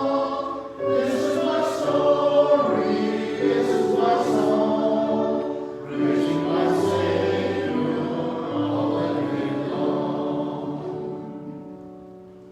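Choir singing a hymn in harmony, the final line ending on a long held chord that fades away.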